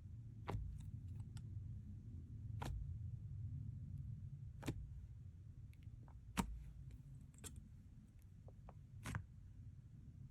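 Slime being worked by hand: sharp sticky pops and clicks about every two seconds, with smaller crackles between them, over a low rumble.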